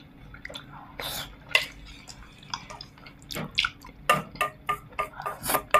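Wet mouth smacks and clicks from eating braised pork ribs, coming thicker about halfway through, with light clinks of tableware.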